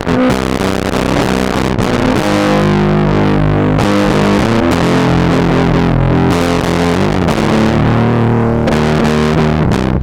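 Electric guitar played through a homemade distortion pedal built from a circuit-bent Whisper 2000 hearing-aid amplifier, giving a loud, steady, heavily distorted tone. Several notes sound at once and are held, changing every second or two.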